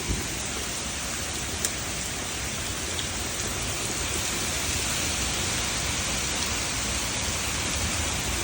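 Heavy rain falling steadily in a thunderstorm: a dense, even hiss of rain.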